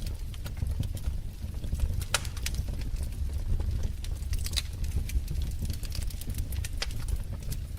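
Wood fire crackling: irregular sharp pops and snaps over a steady low rumble of burning, with the strongest pops about two seconds in and again halfway through.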